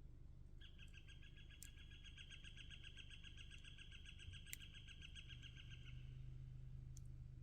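A faint animal trill: one long, even run of rapid repeated notes lasting about five seconds, over a low steady hum.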